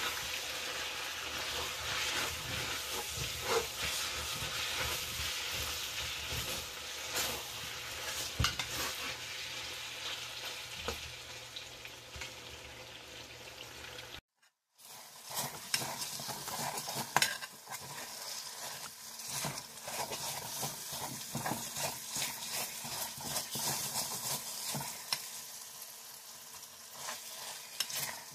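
Semolina halwa sizzling as it fries in the oil it has released, the finishing stage of the halwa, while a metal slotted spatula stirs and scrapes the kadhai with frequent clicks. The sound cuts out briefly just after halfway, then carries on a little quieter.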